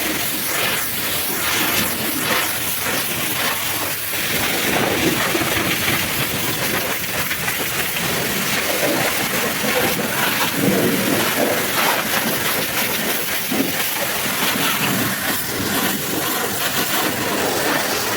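High-pressure washer jet spraying water and mud off a truck: a loud, steady hiss and spatter whose tone shifts now and then.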